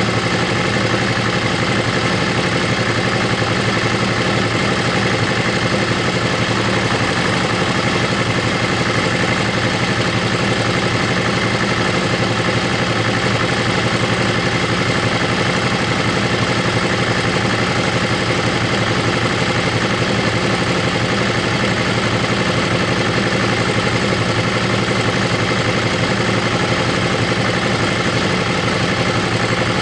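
Motorcycle engine running at a steady speed while riding, with wind and road noise. The engine note holds level, with no revving or gear changes.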